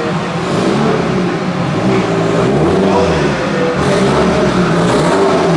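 A car engine running, its revs rising and falling a little throughout.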